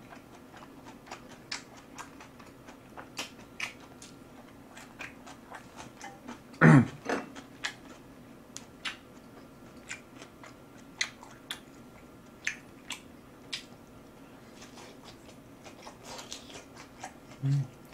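Close-up chewing of grilled beef: irregular wet mouth clicks and smacks over a faint steady hum. A brief loud voiced sound, like a hummed "mm", comes about seven seconds in.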